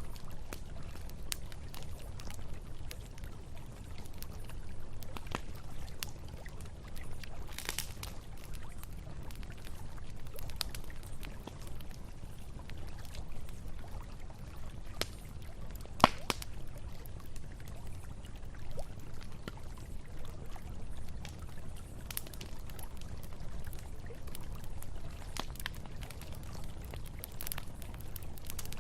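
Campfire crackling with scattered small pops and one sharp, loud pop about halfway through, over the steady low rush of a river.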